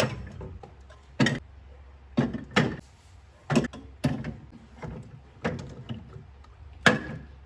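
Household objects being handled and set down: about seven irregular knocks and clunks, roughly a second apart.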